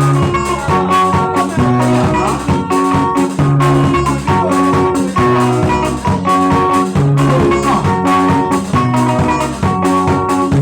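Live band music with a steady quick beat, a repeating bass line and guitar melody.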